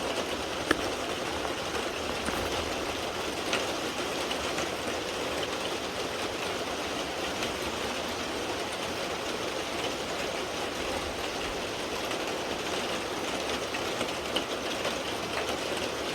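Steady rain falling during a thunderstorm, a constant hiss with a few sharp drop ticks.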